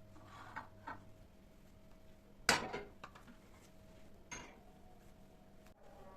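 Dishes and cutlery clinking in a kitchen: a few light clicks, then one loud clatter with a brief ring a little before halfway, and another clink about two-thirds in.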